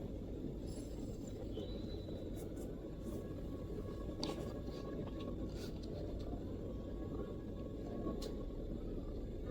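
A few scattered MacBook keyboard keystrokes, single soft clicks a second or more apart, over a steady low background rumble.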